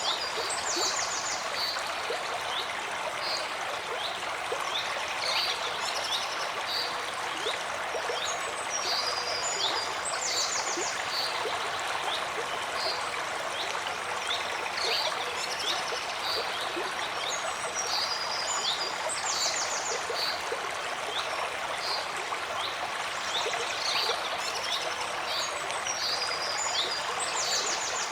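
A forest stream flowing and babbling steadily, with birds chirping in short, high phrases that recur every few seconds.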